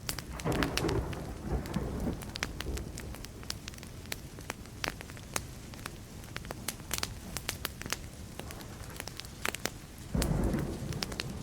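Wood campfire crackling and popping with many sharp snaps throughout, while distant thunder rumbles twice: once starting about half a second in and again near the end.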